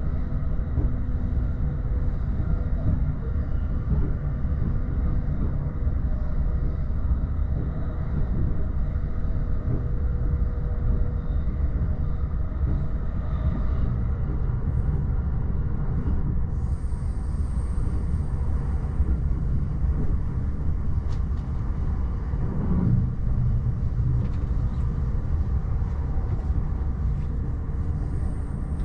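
Steady running rumble of an E231-series electric commuter train, heard from the upper deck of a double-deck Green car. Faint steady tones sound through the first half, and a thin high whine comes in about two-thirds of the way through.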